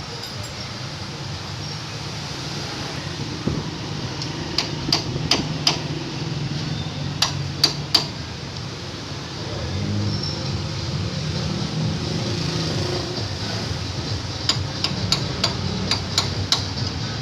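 Hand hammer striking, in short runs of sharp taps: about four, then three, then a quicker run of about eight near the end, over a steady background noise.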